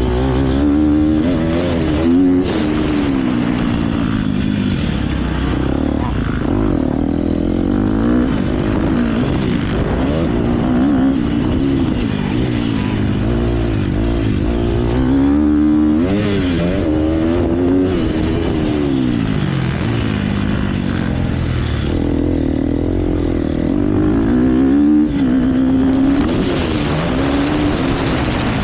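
KTM motocross bike's engine revving hard and dropping back again and again as the rider accelerates, shifts and brakes round the track, with steady wind rush on the microphone.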